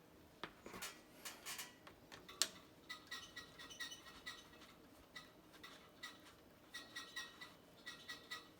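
Irregular small clicks and scrapes of a hand tool working the ends of old electrical wires.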